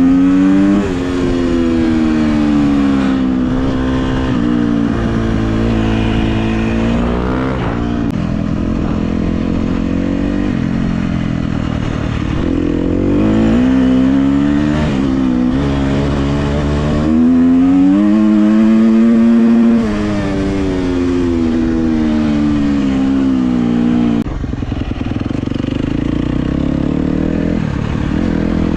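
KTM 250 SX-F dirt bike's single-cylinder four-stroke engine under riding load, revving up and easing off again and again, its pitch repeatedly rising and falling. It settles to a lower, rougher note about 24 seconds in.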